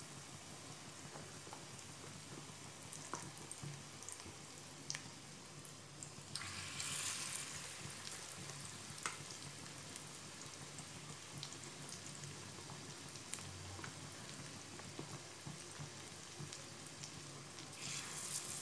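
Batter-coated bottle gourd slices shallow-frying in hot oil in a pan: a steady sizzle with scattered pops and crackles. It swells loudly twice, about six seconds in and again near the end, as fresh battered slices are dropped into the oil.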